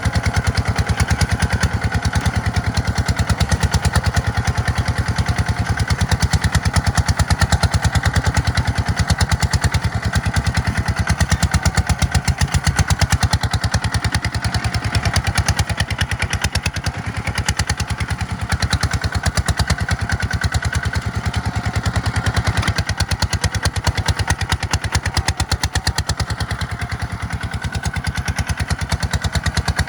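Tractor diesel engine running steadily under load, with a rapid, even exhaust beat.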